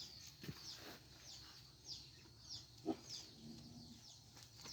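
Faint bird chirping: short, high chirps falling in pitch, repeated about every half second. A couple of soft knocks come through, the clearest nearly three seconds in.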